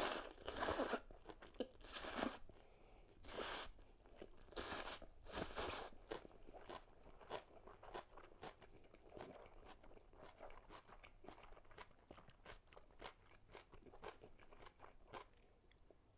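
Close-miked eating of crunchy cabbage kimchi: five loud crunching bites in the first six seconds, then steady wet chewing with many small clicks that fades out shortly before the end.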